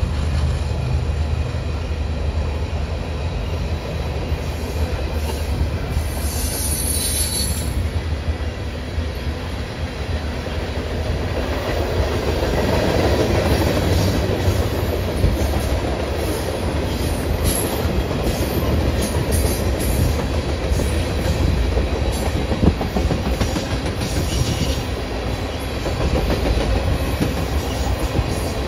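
CPKC freight train's cars rolling past: a steady rumble of steel wheels on rail, with clicks as the wheels cross rail joints. A brief high wheel squeal comes about six seconds in.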